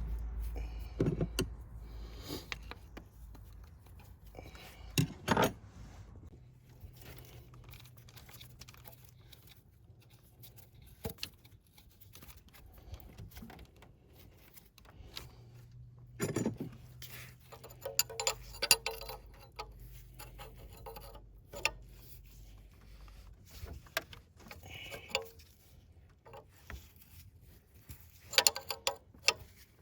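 Irregular metallic clinks, knocks and rattles from hand tools and small metal parts being handled during engine work, with a few louder clusters of knocks.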